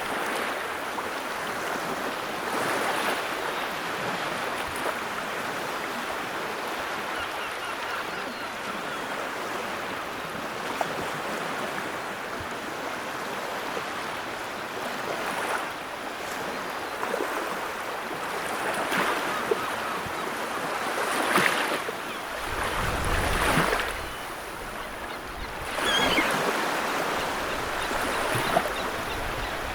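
Wood fire burning in a fireplace: a steady hiss with scattered crackles and pops, swelling now and then into a louder rush of flame, with a brief low rumble in the last third.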